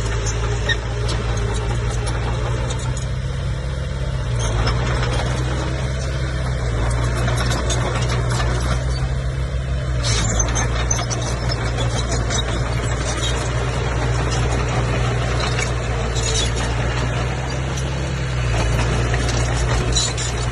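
Komatsu bulldozer's diesel engine running steadily, its note shifting up and down a few times as the load changes, with scattered squeaks and clicks from the steel tracks.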